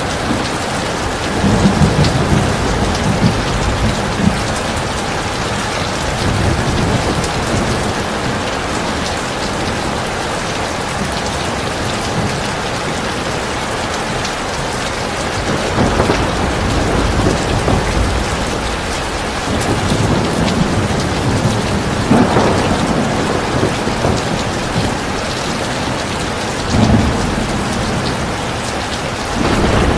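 Heavy rain pouring steadily, with low thunder rumbling in several swells: near the start, about halfway through, and again toward the end.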